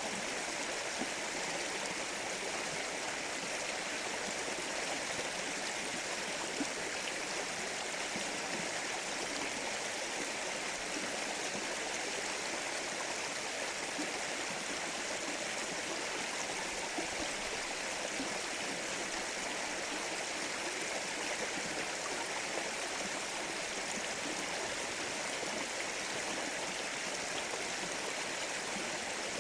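Mountain stream flowing steadily over stones, an even rushing babble of running water.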